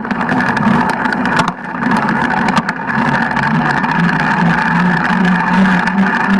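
Freeride mountain bike being ridden, a steady rolling hum with scattered sharp clicks and knocks from the bike and its RST Storm 180 mm suspension fork working over bumps.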